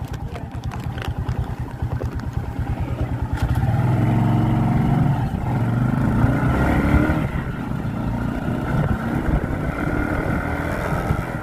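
Motorcycle engine idling with an even pulse, then pulling away about three and a half seconds in, louder and rising in pitch as it revs up through the gears.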